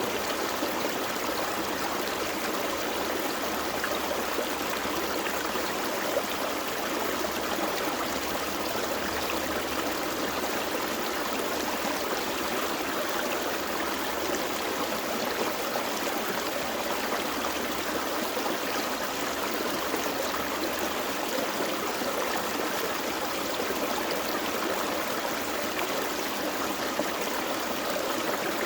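Small forest creek flowing over rocks: a steady, even rush of water with no breaks or changes.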